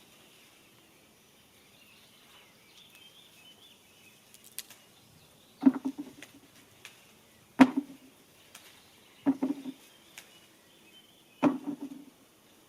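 Four sharp knocks, roughly two seconds apart, each with a short rattling thump, starting about halfway through; faint bird chirps underneath.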